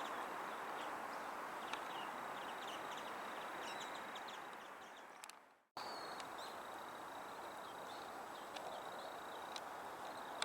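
Short, high bird calls scattered over a steady hum of distant city traffic. Halfway through, the sound fades out and cuts, then returns with a thin steady high tone and more chirps.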